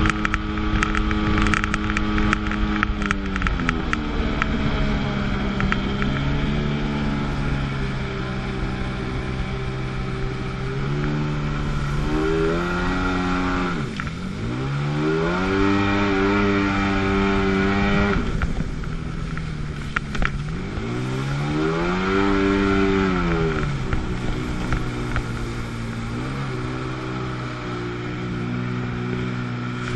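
Two-stroke engine of a 1997 Sea-Doo GTS jet ski (720 cc twin) running on the water. Its pitch falls and rises several times as the throttle is let off and opened again, with two sharp dips to a low note near the middle.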